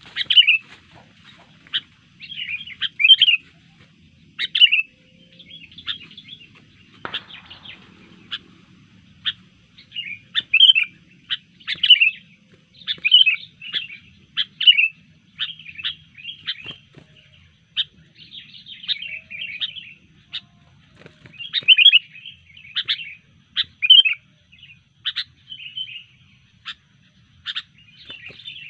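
Sooty-headed bulbul calling in quick, repeated chirps and chattering phrases, the excited calling of a bulbul that has been provoked and turned aggressive.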